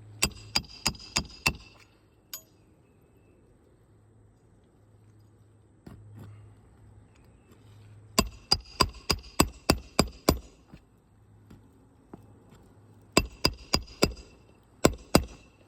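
Roofing hammer striking nails into asphalt shingles: three runs of quick, sharp ringing blows, about five near the start, about nine midway and about six near the end, roughly four blows a second.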